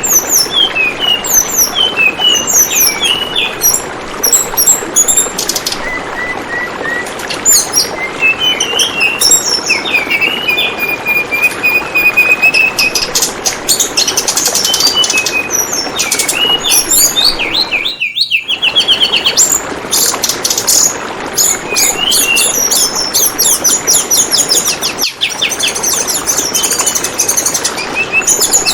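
Tledekan bambu songbird calling over and over in quick chirps and trills, over a steady sound of flowing, trickling water. There is a short break in the sound about two-thirds of the way through.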